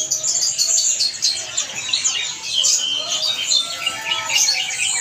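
Many caged songbirds chirping and whistling at once, a dense overlapping chatter of short high chirps with a few longer whistled notes.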